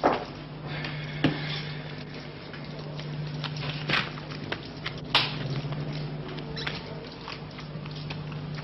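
Manual typewriter keys struck a few at a time, irregular sharp clacks with pauses between them, over a steady low hum.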